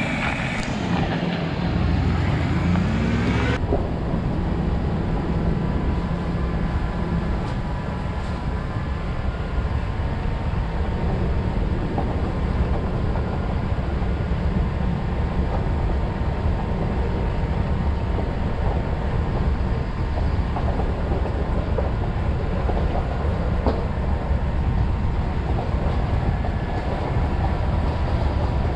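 Full-size Chevrolet 4x4 driving on a forest dirt road: steady engine and road rumble, with the engine's pitch rising over the first few seconds.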